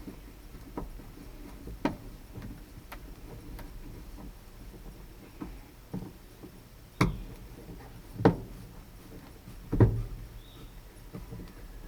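Irregular clicks and knocks of hand tools and metal door parts being handled while fitting a new outside door handle to a pickup door, about half a dozen in all, the loudest about eight and ten seconds in.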